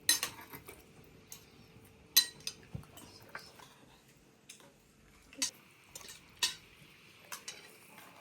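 Cutlery clinking against plates and dishes: irregular sharp clinks, a few louder ones several seconds apart.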